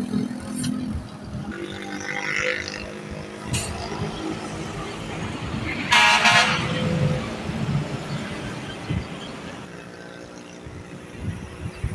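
Road traffic with heavy truck engines running, and a short, loud horn blast about six seconds in.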